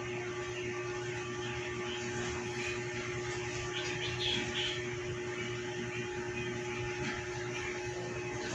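Steady low electrical hum in a small room, with a few faint short sounds about four seconds in.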